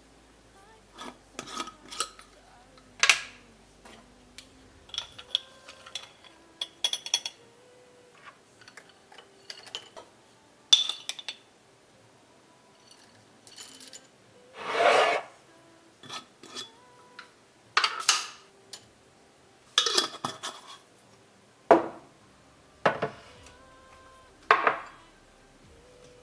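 Kitchen handling sounds: scattered clicks and knocks of dishes and utensils, with several short scraping or rubbing strokes. The longest and loudest stroke comes about halfway through.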